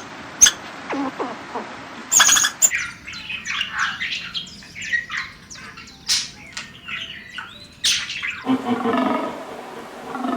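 Birds calling in many short, high chirps and squawks. Near the end a lower, different animal call takes over.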